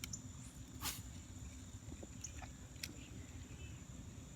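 Faint outdoor background: a low rumble of wind on the microphone under a steady high-pitched insect drone, with a few short faint chirps and a sharp click about a second in.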